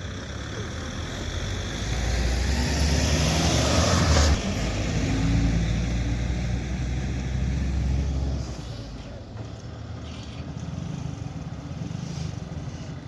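A road vehicle's engine running close by, growing louder over the first few seconds. It peaks about four seconds in and eases off after about eight seconds.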